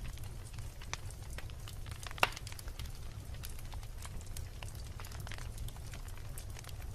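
Wood logs burning in a fireplace, crackling: many small irregular crackles over a steady low rumble, with one louder pop about two seconds in.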